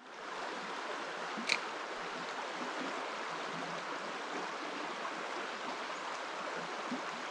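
Creek water running steadily over rocks, an even rushing, with one short high chirp about a second and a half in.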